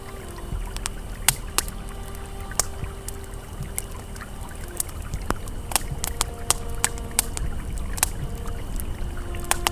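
Campfire crackling with sharp, irregular pops over the steady rush of a flowing river. Faint soft held tones sit underneath.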